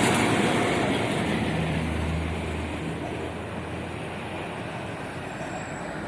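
Rumble of a passing vehicle, fading gradually, with a low steady hum through the middle.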